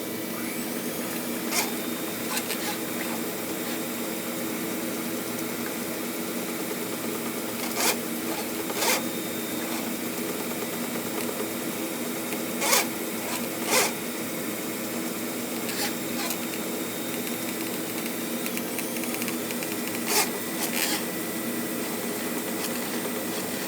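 Electric drain-cleaning machine (flexible rodder) running steadily, turning its wire cable inside the drain pipe, with a few sharp knocks now and then.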